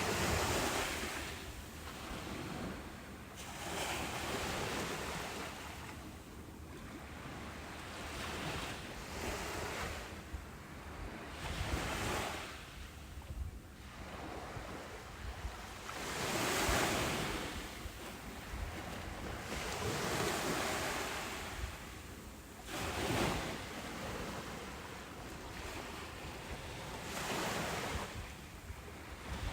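Ocean waves breaking and washing up a beach, a steady rush of surf that swells into louder breakers every three to five seconds and then draws back.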